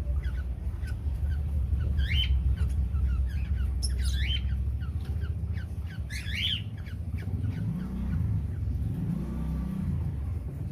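Aviary parrots giving harsh squawks, a few sharp calls about every two seconds that die away after about six seconds, over a steady low hum.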